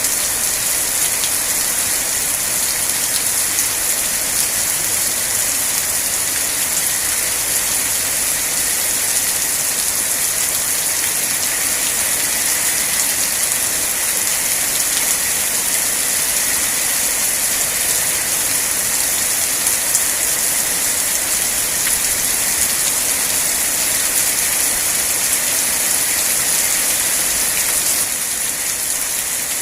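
Steady, heavy rain falling and hissing, a dense even patter of drops on surfaces. The sound drops slightly in level near the end.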